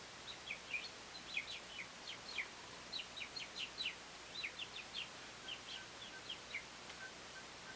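American robins calling: many short, quick downward chirps, several a second. In the second half a faint, evenly repeated high peep joins in.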